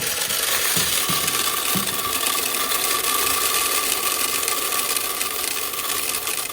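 Coffee machine running: a steady mechanical whirr with a thin, steady whine.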